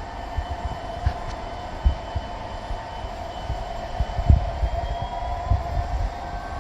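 Model train running on a museum layout: a steady motor whine that rises slightly in pitch past the middle, with irregular low knocks and clicks of the running gear on the track.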